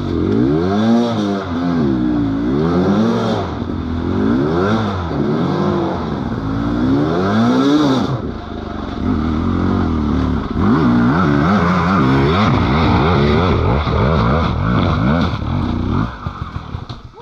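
Dirt bike engine revved hard again and again, its pitch climbing and falling about every two seconds, then in quicker, choppier throttle blips until it drops away near the end: a rider working the throttle on a muddy slope.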